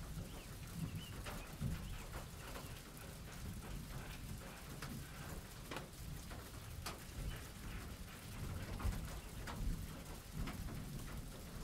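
Steady rain, with scattered sharp drip ticks and an uneven low rumble underneath.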